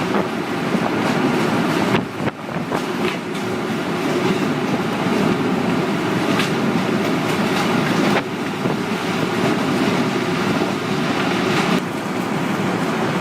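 Tornado winds making a steady low rushing noise, with sudden dips in level about two, eight and twelve seconds in.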